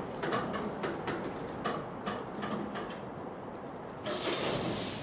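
Container wagons of a freight train rolling past, the wheels clicking several times a second over the rail joints. The clicks thin out as the last wagons go by. About four seconds in, a sudden loud hiss breaks in.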